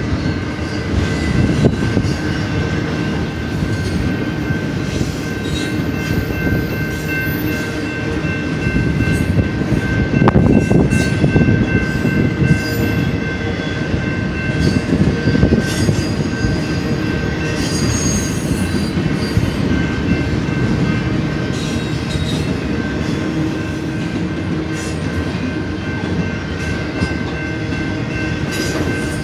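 BNSF intermodal freight train cars rolling past with a steady rumble of steel wheels on rail. A thin, steady high-pitched wheel squeal sits over the rumble, and the sound swells briefly about ten seconds in.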